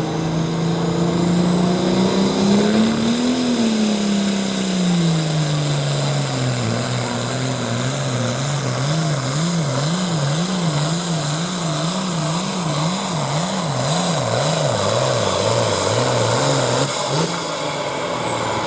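Hot farm class pulling tractor's diesel engine under full load during a pull. The engine climbs in pitch and then bogs down, then wavers up and down about once a second as the tractor bounces down the track, before backing off near the end. A high turbo whistle rises and falls along with it.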